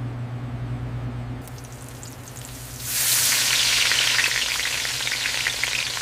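Meat sizzling as it fries, a crackling hiss that starts loudly about three seconds in, after a steady low hum.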